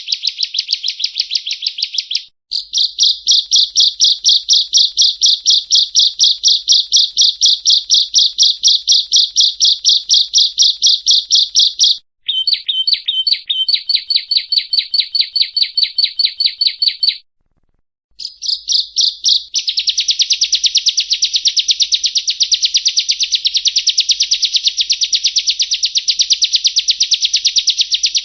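Prenjak rowo, a prinia, singing a long series of rapid, evenly repeated high chirping notes, several a second. The runs break off abruptly a few times with short silences.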